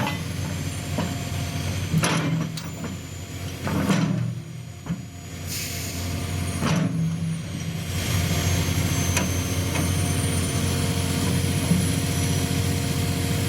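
Excavator diesel engine running steadily as the machine is manoeuvred to line up with the bucket, with a few sharp clanks about two, four and seven seconds in. From about eight seconds in the engine runs louder, with a steady hiss over it.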